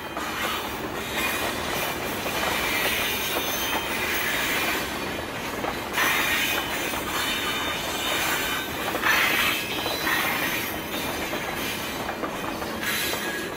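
Recorded freight train rolling along the track: a steady rattle and rumble of the wagons, with brief high-pitched wheel squeals a few times and loud peaks about 6 and 9 seconds in.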